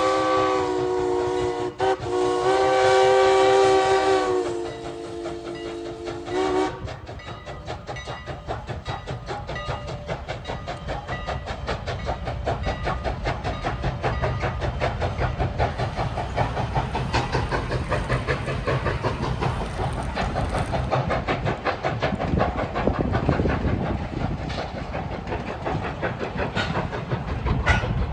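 Strasburg Rail Road No. 89, a 2-6-0 steam locomotive, sounding its whistle as a chord of several notes, with a brief break near two seconds, until it cuts off about seven seconds in. Then the passing train rumbles with a steady, fast clicking rhythm of wheels and running gear.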